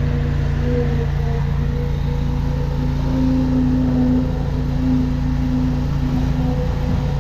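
High-pressure drain jetter's engine and pump running steadily, a constant drone. One of its tones rises slightly about three seconds in and drops back near six seconds.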